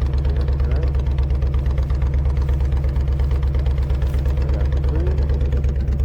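Honda VTX V-twin motorcycle engine running steadily with an even, rapid throb.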